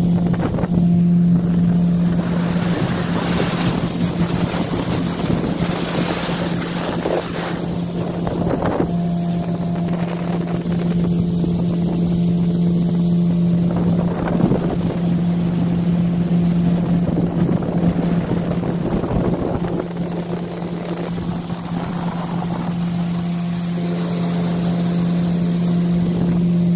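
Motorboat engine running at a steady cruising speed, one constant drone throughout, with wind buffeting the microphone and the rush of water.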